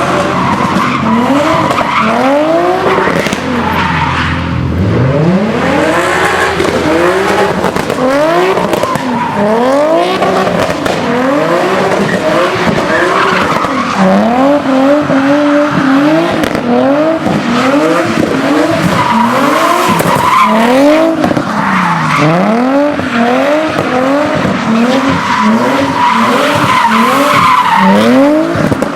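A car engine revving up and falling back over and over, about once a second, over continuous tire squeal: a car spinning donuts or drifting.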